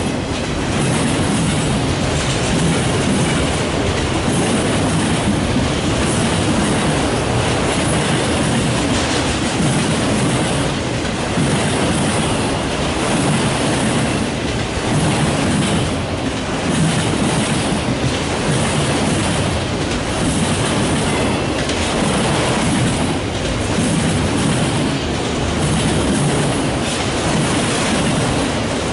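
A freight train of autorack cars rolling past at a steady speed: a continuous rumble and rattle of steel wheels on the rails, with repeated clicks as the wheelsets cross rail joints.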